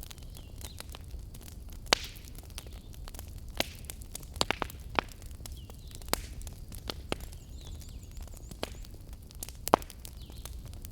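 Fire burning in a fireplace: irregular sharp crackles and pops over a steady low rumble of the flames, with two louder pops, one about two seconds in and one near the end.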